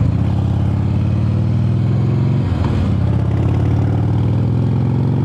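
2005 Harley-Davidson Heritage Classic's V-twin engine running steadily through exhaust pipes the rider thinks are stock, with a brief dip in the note about halfway through.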